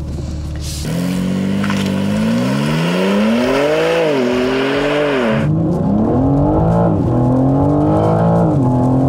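BMW M4 Competition's S58 3.0-litre twin-turbo straight-six under full-throttle acceleration in a timed 0-100 km/h run, the engine note climbing and dropping sharply at each quick automatic upshift, about every second and a half, four times.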